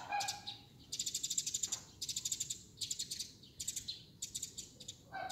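Small birds chirping in fast high trills, about a dozen chirps a second, in repeated bouts of about a second with short gaps between them.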